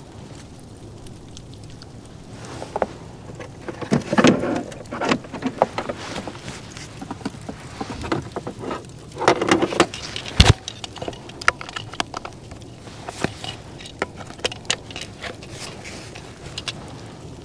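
Irregular clicks, taps and knocks of objects being handled, with two spells of rustling and one sharp knock about ten seconds in.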